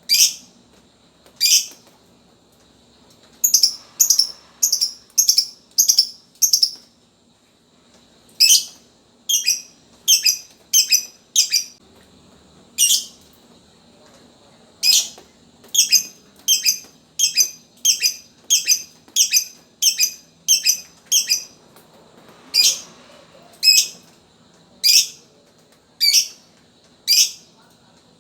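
Lovebird giving short, sharp chirps in runs of several, about two a second, with brief pauses between runs.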